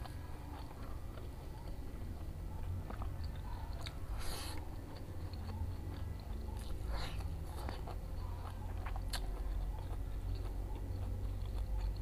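Close-miked chewing of smashed fried tofu with sambal, wet mouth sounds with sharper bites and crunches here and there, one of them louder about four seconds in. A steady low hum runs underneath.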